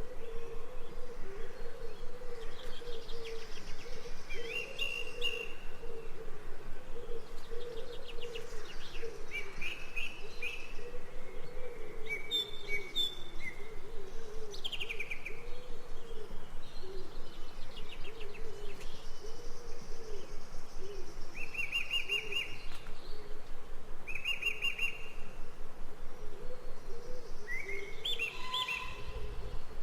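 Birds chirping and trilling in short separate phrases, over a steady, fast-pulsing low warble.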